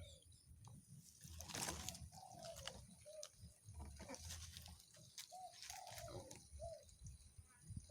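Spotted dove cooing faintly, a string of short low coo notes about a second apart, some longer and drawn out, with a brief rustle about a second and a half in.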